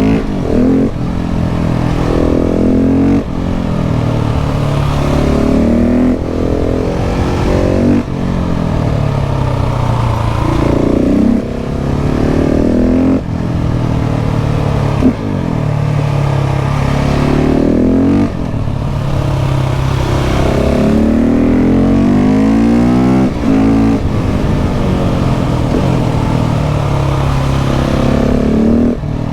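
KTM 690 SMC R's LC4 690 single-cylinder engine under hard riding, revving up through the gears again and again. The pitch climbs and then drops sharply at each gear change, every one to three seconds, with a deep, loud exhaust note.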